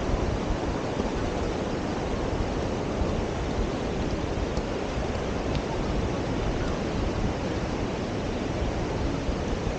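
Steady rush of surf on a sandy beach, mixed with wind buffeting the microphone.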